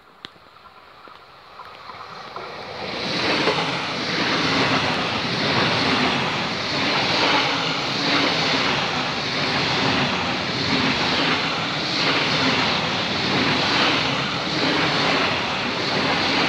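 An ICE high-speed passenger train passing close by at speed. Over the first three seconds its sound builds into a loud, steady rush of wheels on rail and air, with a faint regular pulsing.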